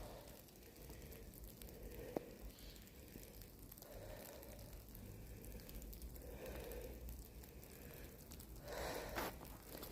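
Faint, slow breathing close to the microphone. Footsteps on forest ground start near the end.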